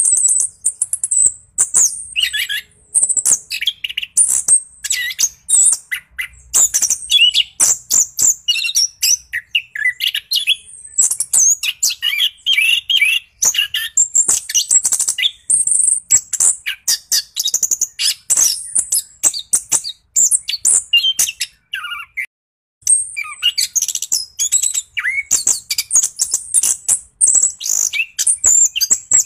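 Orange-headed thrush singing a long, rapid run of varied high chirps and whistles with almost no breaks. This is the non-stop 'ngeroll' song of a bird in full voice. The song pauses briefly about 23 seconds in.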